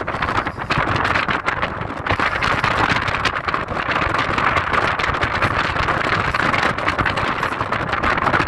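Car driving along a forest road: steady tyre and road noise over a low rumble, with no engine note standing out.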